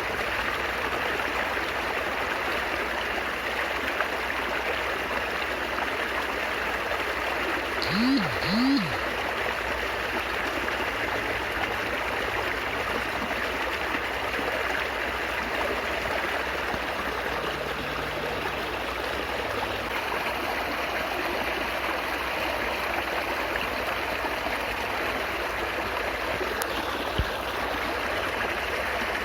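Stream of water babbling steadily. About eight seconds in, two short sounds that rise and fall in pitch, close together, stand out briefly above the flow.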